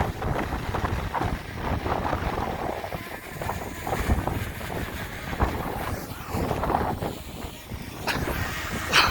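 Strong, gusty wind buffeting the microphone: an uneven rumbling rush that swells and drops, with a short sharp burst near the end.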